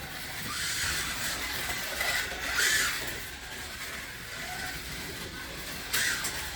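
A 1/24 scale slot car with a scratch-built brass chassis running on the track, its small electric motor and gears whirring, rising and falling as it speeds up and slows. A sharp knock about six seconds in, as the car's rear bumper comes off.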